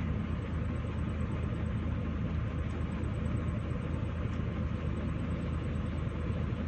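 A large vehicle engine running steadily at low revs, a constant low rumble.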